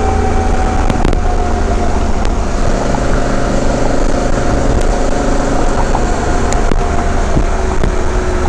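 Honda Africa Twin's parallel-twin engine running steadily while riding, with a constant rush of road and wind noise; the engine note drifts slightly lower.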